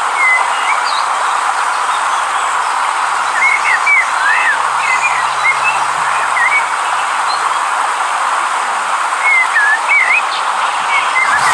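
River water rushing steadily, with small birds chirping over it in short clusters, a flurry of calls about three to five seconds in and more near the end.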